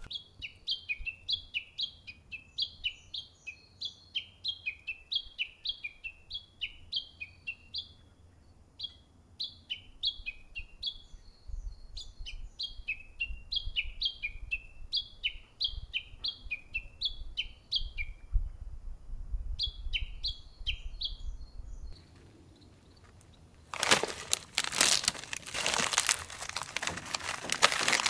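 A songbird singing phrases of quick, high, downward-sliding notes, several a second, with short pauses between phrases. About two-thirds of the way through the song stops, and near the end a plastic snack bag crinkles and rustles loudly as it is cut open and emptied into a metal bowl.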